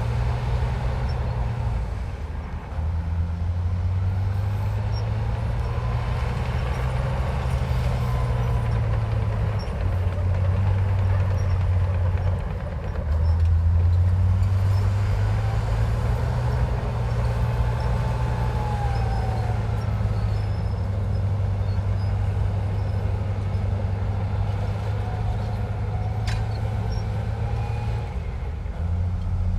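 Komatsu bulldozer's diesel engine running steadily under load, its note stepping up and down several times as the load changes. A fainter whine glides up and down above it.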